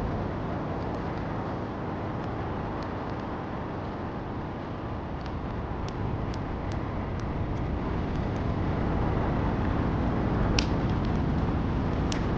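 Steady rain mixed with a crackling wood fire: an even rush of rain throughout, with scattered sharp crackles and pops from the fire, the loudest pop coming about two-thirds of the way through.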